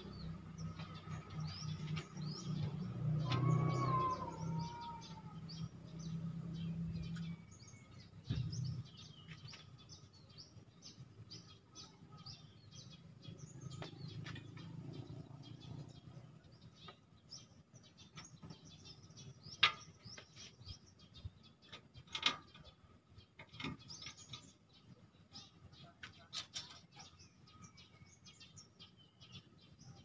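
Small birds chirping in quick, repeated short notes, with a few sharp clicks later on. A low hum runs under the first several seconds and then stops.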